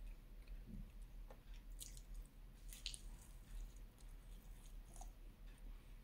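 Faint, close-up chewing of soft food, with a few short wet mouth clicks and smacks.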